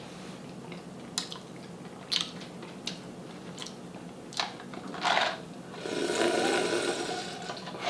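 Close-miked eating of a seafood boil: a few short wet mouth clicks about a second apart, then a longer crackly, rustling stretch near the end.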